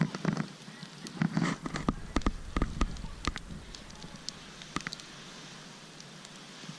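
Wood campfire crackling, with a cluster of loud pops in the first three seconds or so, then fainter, sparser crackles.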